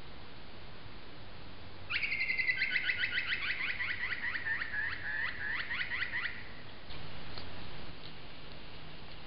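A bird calling: a quick series of short down-slurred notes, about six a second, over a held whistle, lasting about four seconds, against the steady hiss of a trail camera's microphone.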